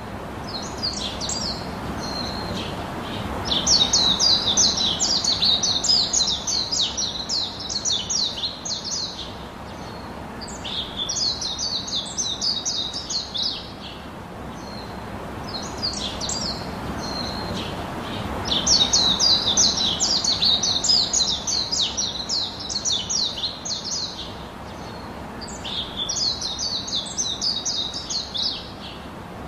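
Birds chirping in rapid trilling phrases of a few seconds each, with short pauses between them, over a steady low hiss.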